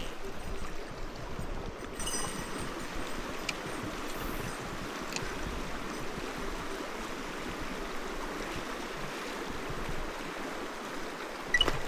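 Clear mountain stream rushing steadily over its rocky bed, with a few faint clicks and a sharper tick near the end.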